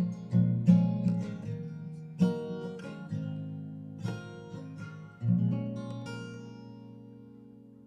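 Background music: acoustic guitar strumming chords, the last chord about five seconds in left to ring and fade away.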